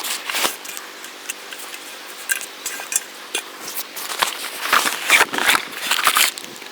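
Irregular clicks, taps and rustles of small objects being handled, several sharp clicks clustering near the end.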